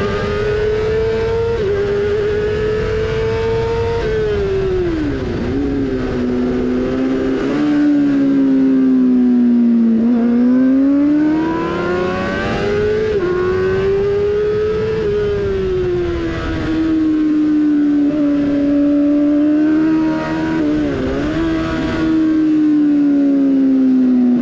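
Yamaha R6 600 cc inline-four with a GPR Furore exhaust, racing hard. The revs climb and fall several times, with small dips at upshifts and quick flurries of downshift blips under braking, about five seconds in and again about twenty seconds in.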